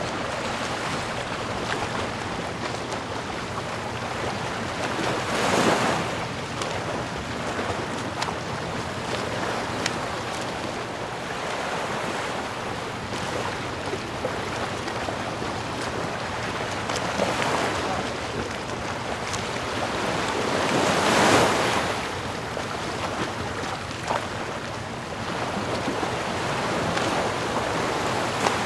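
Sea waves washing on the shore in a steady rush, with a wave breaking louder about six seconds in and again about twenty-one seconds in.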